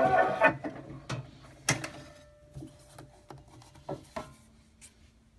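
A brass band recording playing on a diamond disc phonograph stops about half a second in. Then comes a scatter of light knocks and clicks from handling at the phonograph, the loudest a little under two seconds in.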